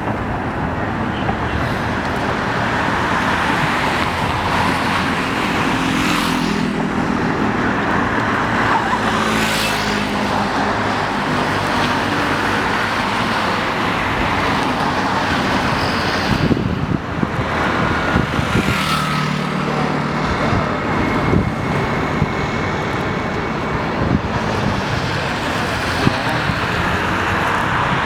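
Steady outdoor street noise, like road traffic, with a few brief sharper sounds standing out from it.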